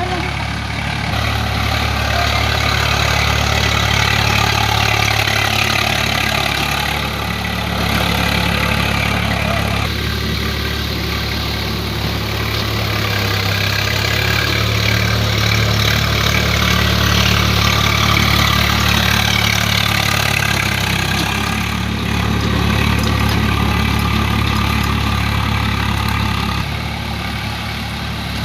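Swaraj 744 FE tractor's three-cylinder diesel engine running steadily while cultivating, its sound swelling and easing several times as the load and throttle change.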